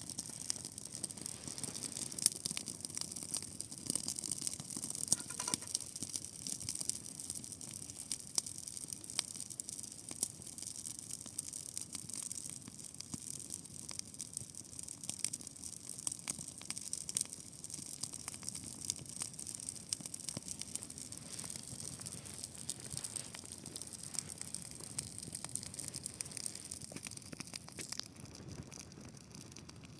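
Dry grass burning in a large open fire: a dense, steady crackle of many small pops over a hiss.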